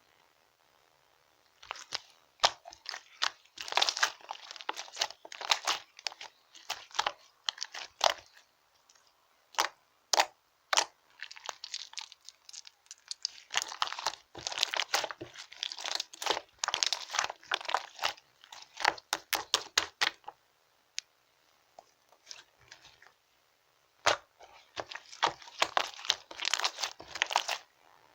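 Slime being squeezed and worked by hand, giving dense runs of small crackling clicks and pops in repeated bursts, with a pause of a few seconds before a last burst near the end.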